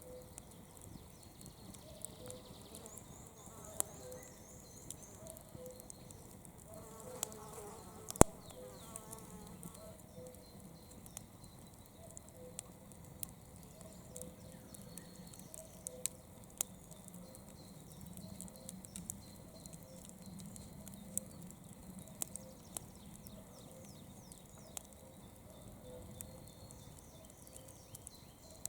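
Campfire burning with scattered sharp crackles and pops of the wood, one much louder pop about eight seconds in. A faint, even, rhythmic chirping runs behind it.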